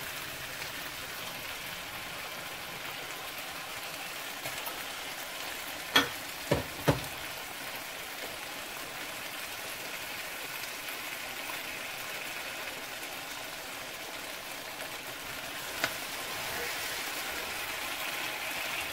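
Chicken curry frying steadily in a pan while tamarind water is strained in through a metal mesh strainer. Three sharp utensil taps come about six seconds in and one more later, and the sizzle grows a little louder near the end as the liquid reaches the pan.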